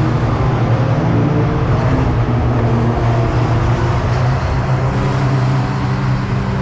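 Racing pickup truck's engine running at fairly steady revs, with little rise or fall in pitch.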